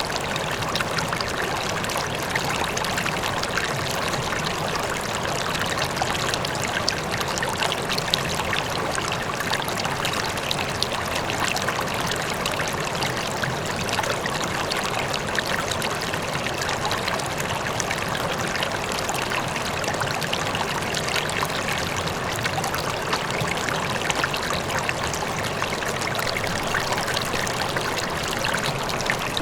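River water flowing steadily over rocks, a continuous rushing and trickling with a fainter waterfall behind it.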